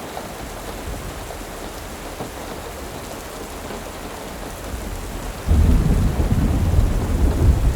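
Steady rain, with a loud, deep rumble of thunder breaking in suddenly about five and a half seconds in.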